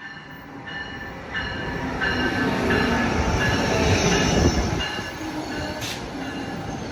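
Amtrak train led by a Siemens ACS-64 electric locomotive rolling into the station. The wheels squeal in short high tones over a rumble that grows louder to a peak about four seconds in, then eases.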